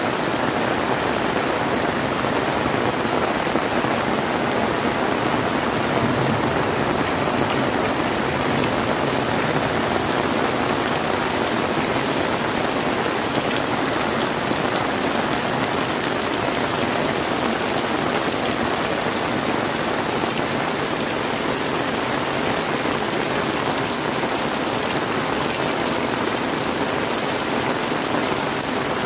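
Heavy rain pouring down steadily, a dense even hiss of rain hitting surfaces.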